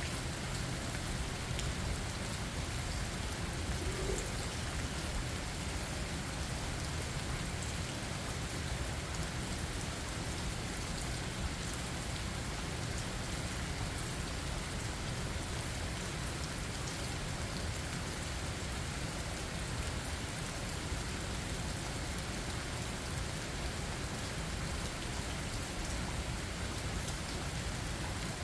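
Steady rain falling, an even hiss with no distinct thunderclap.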